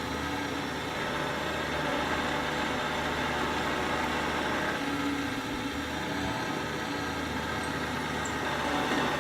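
Parkside bench pillar drill's electric motor running steadily while the bit bores down into wood, making slow progress on the hole.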